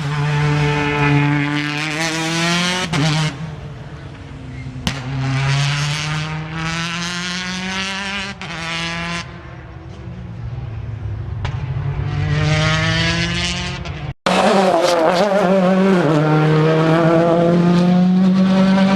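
Rally car engines accelerating hard through the gears, the pitch climbing and dropping back at each upshift, with some lift-off between runs. The sound cuts off abruptly about two-thirds of the way through, and a louder car follows at high revs.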